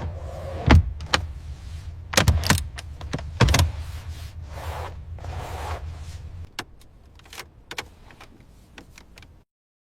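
A low steady hum with a run of sharp clicks and knocks over it, the loudest a few near the start and in the middle. The hum stops about six and a half seconds in, a few fainter clicks follow, then the sound cuts off to silence near the end.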